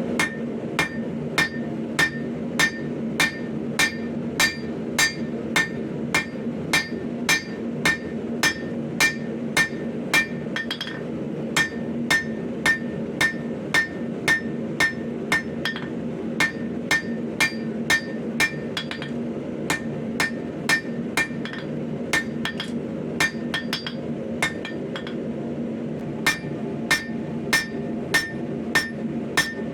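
Hand hammer forging hot 5160 spring steel on an anvil: steady blows about two a second, each with a bright metallic ring, with a few lighter, uneven taps in between. A steady low rush runs underneath.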